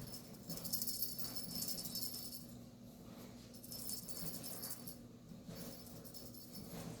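A small bell on a cat toy jingling in quick, shaken bursts: a longer burst of about two seconds, then a shorter one about half-way through.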